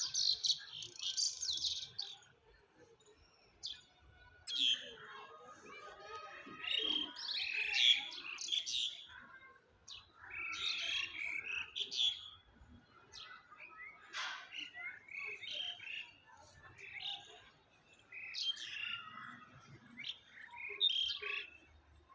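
Songbirds chirping and singing in quick, high phrases a few seconds long, with short pauses between them.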